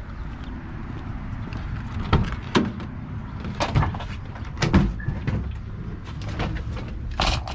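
Gear being stowed in the back of a work vehicle: a run of sharp knocks and clatters of things set down and shifted, then a longer scraping burst near the end, over a steady low rumble.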